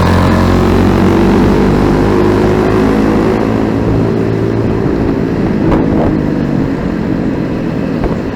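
Motorcycle riding through city traffic: a steady engine drone over road noise, loudest in the first few seconds and easing off after about four seconds.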